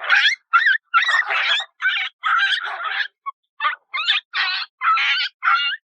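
A run of about ten short, pitched, bird-like calls, much like a hen clucking, each a fraction of a second long with a wavering pitch.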